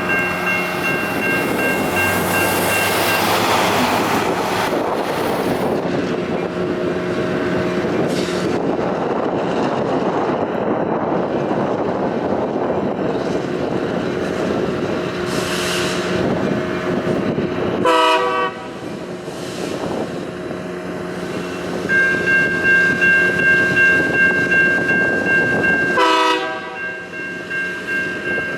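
Sacramento RT light rail train running along the track, with steady wheel and motor noise. A ringing warning tone sounds near the start and again in the last few seconds, pulsing quickly the second time.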